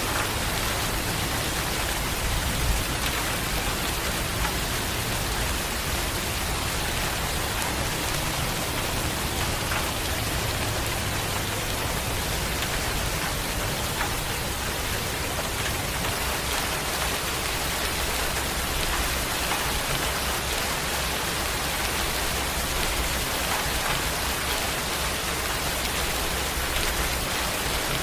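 Steady heavy rain falling, a dense even hiss of drops pattering on a surface, with a low rumble underneath.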